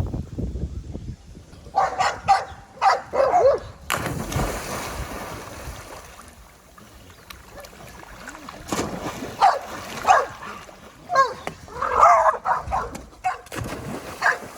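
Dogs whining and yipping in short high bursts, in two spells, with water splashing.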